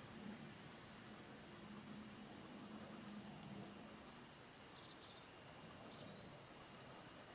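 High-pitched rapid chirping trills, each about half a second long, repeated about once a second, with a few sharper single chirps mixed in.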